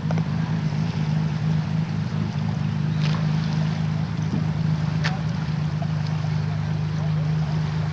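A boat's engine running at a steady speed, a low even hum, under a steady rushing hiss, with a couple of faint clicks about three and five seconds in.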